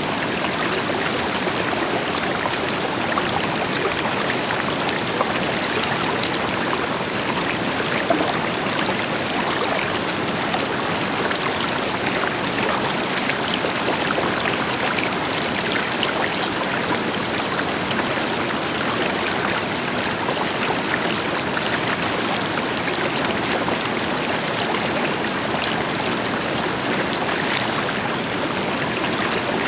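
A river flowing over stones, a steady rushing with fine splashing and trickling, over a deeper, even rush from a waterfall.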